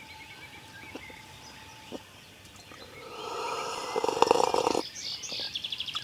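Small birds singing in woodland, with faint chirps at first and a fast trill near the end. A louder rustling noise builds up a little past halfway and fades after a couple of seconds.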